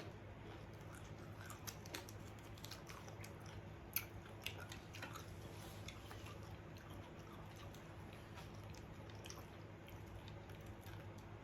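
Faint chewing of a sushi roll, with scattered small mouth clicks; one slightly louder click about four seconds in, over a steady low room hum.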